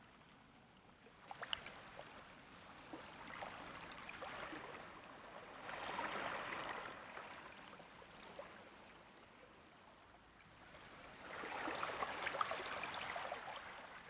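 Small, gentle waves washing up a beach and draining back, fizzing and crackling. Two swells of wash come, one about halfway through and a larger one near the end.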